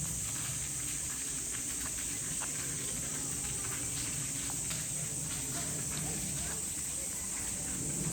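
Steady, high-pitched drone of a summer insect chorus, cicadas, that does not let up, with scattered light ticks over it.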